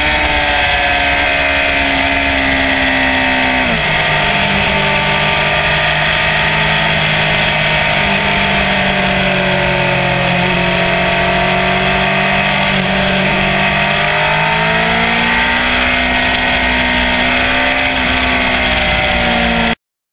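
Sportbike engine running at highway cruise, with steady wind and road rush. The engine note drops abruptly about four seconds in, holds steady, then climbs a little again a few seconds before the end. The sound cuts off suddenly just before the end.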